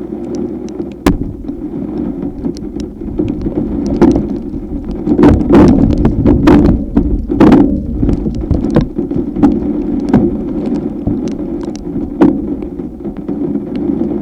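Severe thunderstorm wind and rain with a steady rumble, and many sharp taps of drops striking near the microphone, thickest around the middle.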